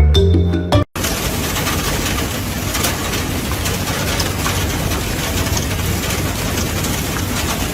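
Background music that cuts off about a second in, followed by a steady loud noise with a low rumble.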